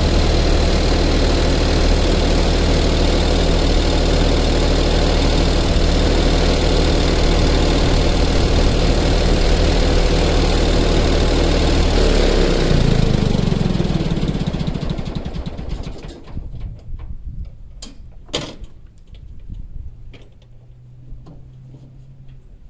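An engine running steadily, then shut off about 13 seconds in, winding down to a stop over a couple of seconds. A few sharp knocks follow, the loudest about 18 seconds in.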